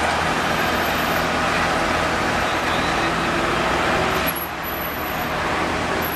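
Motor vehicle engines running steadily amid road traffic noise, easing off slightly about four seconds in.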